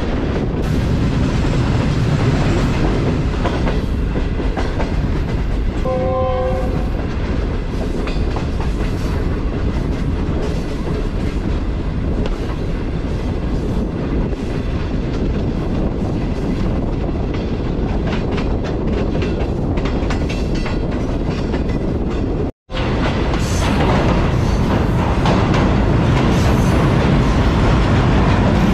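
Green Line Express passenger train running, a loud steady rumble with wheels clattering over the rail joints. A short horn blast sounds about six seconds in, and the sound cuts out for an instant about two-thirds of the way through.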